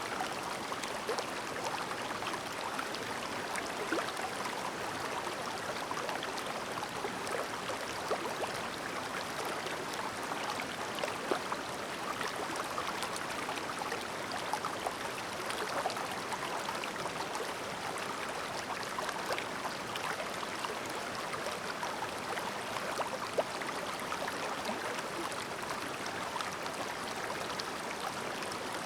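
Clear mountain stream murmuring: a steady rush of flowing water with many small splashes and gurgles scattered through it.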